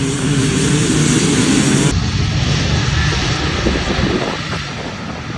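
Motocross bike engines racing at high revs, the pitch wavering as the throttle opens and closes. The sound changes abruptly about two seconds in, then continues as a rougher mix of engines.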